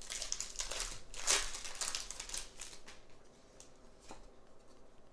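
Pokémon trading cards and their crinkly foil pack wrapper being handled: brisk rustling and sliding strokes for the first three seconds, loudest about a second and a half in, then a few faint clicks.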